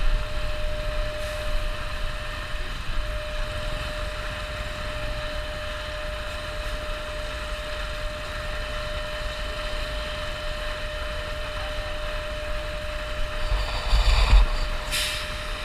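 Honda CBR250R motorcycle riding at a steady speed: the engine holds a constant drone with wind rumble on the microphone. There is a louder bump near the end.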